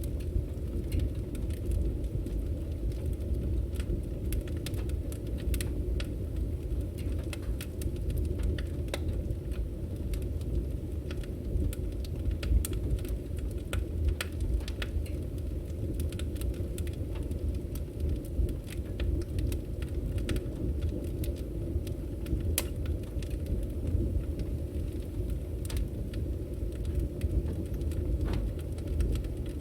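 Firewood burning: a steady low rumble of the flames with frequent sharp, irregular crackles and pops.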